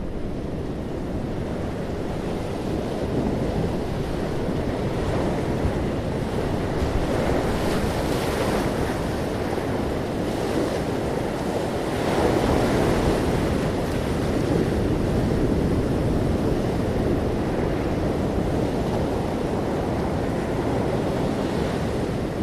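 Sea waves breaking and washing in, with wind rumbling on the microphone; the surf swells louder about a third of the way in and again just past the middle.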